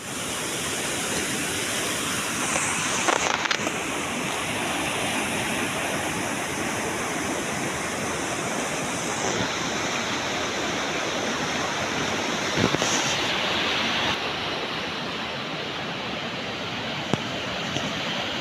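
Steady rushing noise with a few short knocks, about 3, 12.5 and 17 seconds in.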